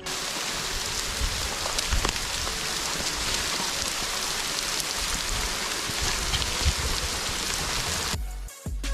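Steady rain falling: an even hiss with scattered ticks of individual drops. It cuts off abruptly about eight seconds in.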